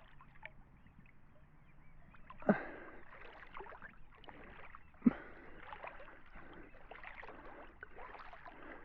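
Water splashing and sloshing close to a handheld camera as a swimmer strokes through a lake, with two sharper splashes about two and a half and five seconds in.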